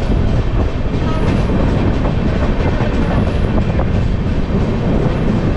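Farakka Express passenger train running: a steady rumble of wheels on the track with some clatter, heard from aboard the coach.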